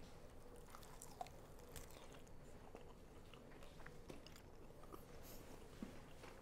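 Near silence with faint chewing of a smoked chicken wing and a few small clicks, the most distinct about a second in and again near the end.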